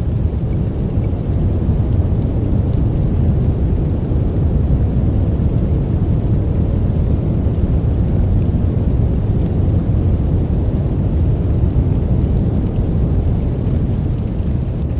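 A steady, deep, even noise track sold as white noise for sleep, its sound weighted to the low end with little hiss, with no change or break.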